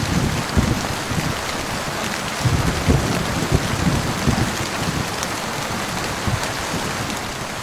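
Heavy rain falling steadily, a dense hiss of drops, with low rumbles of thunder swelling and fading. The rumbles are strongest in the first half.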